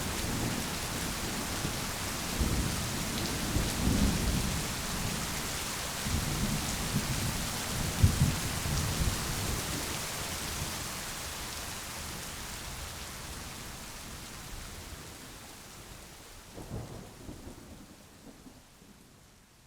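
Steady rain with thunder rumbling low several times, one sharper clap about eight seconds in; the whole storm fades out gradually toward the end.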